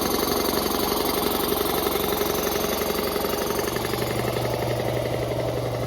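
An engine idling steadily with a fast, even chugging pulse, joined about two-thirds of the way in by a low steady hum.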